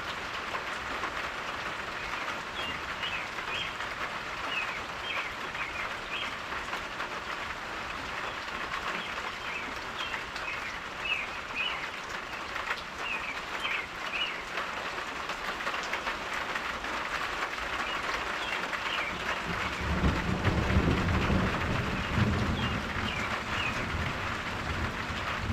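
Steady rain falling, an even hiss, with short high chirps dotted through it. About twenty seconds in, a low rumble swells for a few seconds and then eases.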